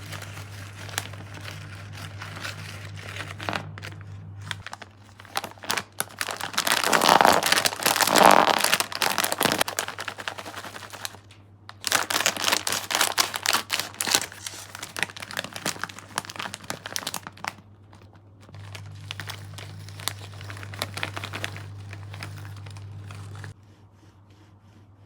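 Crinkling of plastic sweet wrappers or packaging being handled, in two louder stretches of dense crackling, with a steady low hum under the quieter parts.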